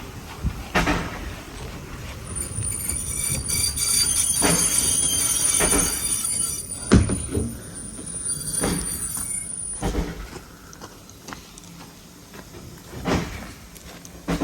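A train passing at a level crossing, its wheels knocking over rail joints several times at uneven intervals. From about two seconds in until about ten seconds in, a high-pitched wheel squeal rides over the knocks.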